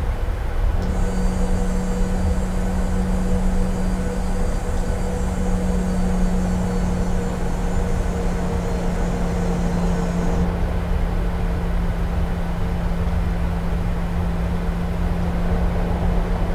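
Steady cabin noise inside a Boeing 737 on the ground with its engines running: a constant rumble and low hum, with a thin high-pitched whine that starts about a second in and stops about ten seconds in.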